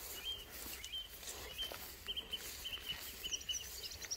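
Small songbird singing: a run of short, repeated chirps, with a few higher notes near the end.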